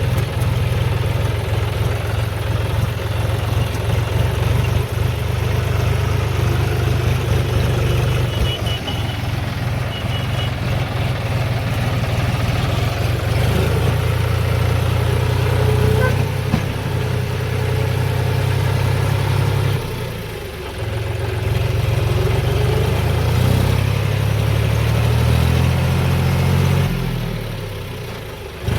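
Diesel engine of farm harvesting machinery running steadily. Its note shifts a few times, and it briefly drops away about two-thirds of the way through and again near the end.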